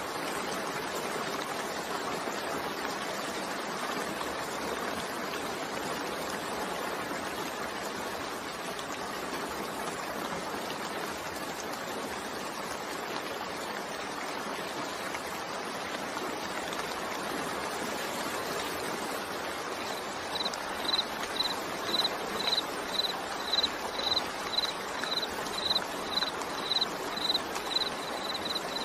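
Steady rain, an even hiss of falling water with no single drops standing out. About two-thirds of the way through, a high, even chirp starts repeating about twice a second, louder than the rain.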